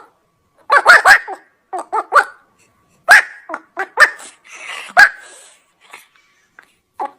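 A dog barking repeatedly: short, sharp barks, often two or three in quick succession, with pauses between the groups.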